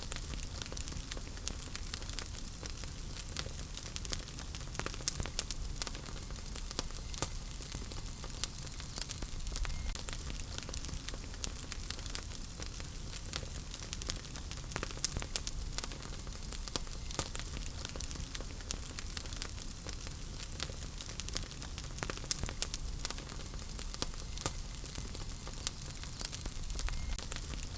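Wood fire burning in a fireplace: a steady hiss of flame with frequent irregular crackles and pops from the burning logs.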